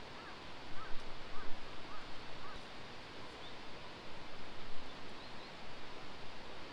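A small bird calling a run of about six short, quick chirps in the first half, over a steady rustling hiss.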